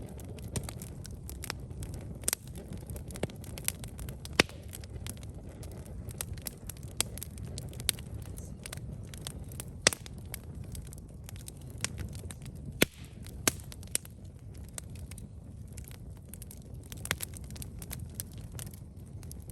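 Campfire burning: irregular sharp crackles and pops from the burning wood over a steady low rumble of the flames, with a few louder snaps.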